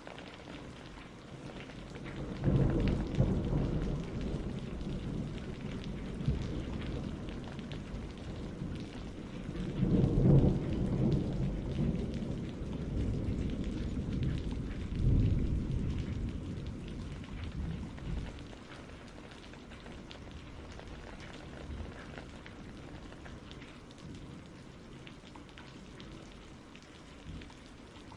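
Steady rain falling, with a long roll of thunder that rumbles up about two seconds in, swells several times and fades away after about eighteen seconds.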